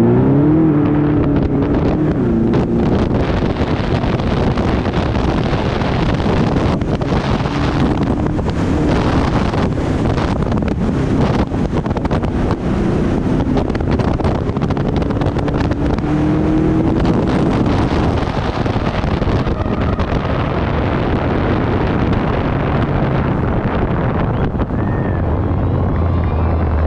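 Car engine heard from a camera mounted on the car's body as it laps a paved oval track: the engine revs up just after the start, then runs on at speed, with one more rise in pitch partway through. Wind noise buffets the microphone throughout.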